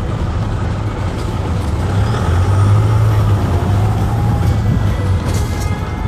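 Camper van driving slowly: a steady low engine and road rumble that grows a little louder in the middle.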